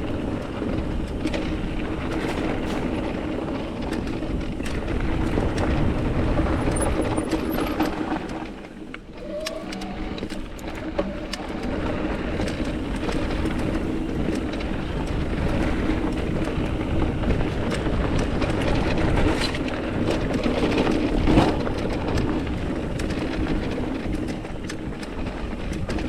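Mountain bike coasting fast down a rocky trail: a continuous rush of tyre noise and wind on the microphone, with the bike rattling and clattering over bumps. It eases off briefly about nine seconds in, then picks up again.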